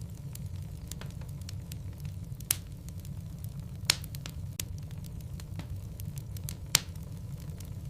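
Logs burning in a fireplace: the wood crackles with many small ticks and three sharp, louder pops, over a steady low rumble.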